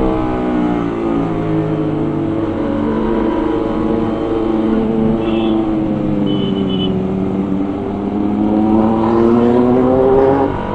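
Motorcycle engine running on the move. Its pitch sags over the first few seconds, then climbs steadily as the bike accelerates toward the end.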